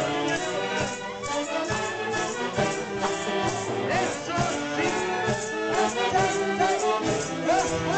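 Live orquesta music with many held melody notes, some sliding in pitch, over a steady quick beat.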